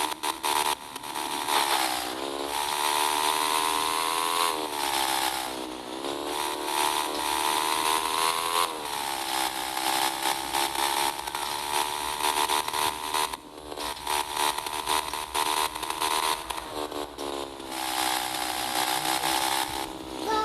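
Small motorcycle engine running with a high, buzzy note, revved up and down several times.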